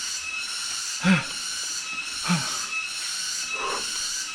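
A man breathing hard and grunting with effort as he climbs steep stairs carrying a child: three short voiced exhalations, each falling in pitch, about a second apart, over a steady hiss.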